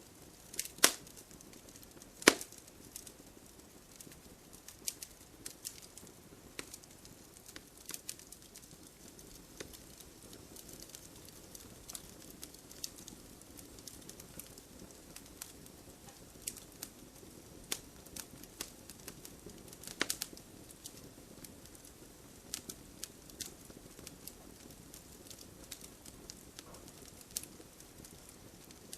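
Wood logs burning in a fireplace, crackling with irregular sharp pops over a soft hiss. The loudest snaps come about a second in, again a second later, and around twenty seconds in.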